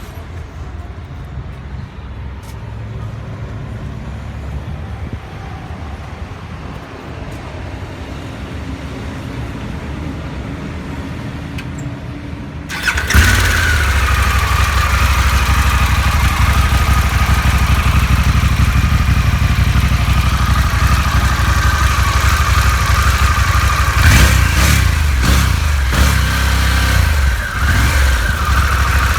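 Harley-Davidson Pan America 1250's liquid-cooled Revolution Max 60-degree V-twin running through its stock exhaust. A low, steady rumble turns suddenly much louder about 13 seconds in, and the engine rises and falls in pitch a few times near the end, as if the throttle were being blipped.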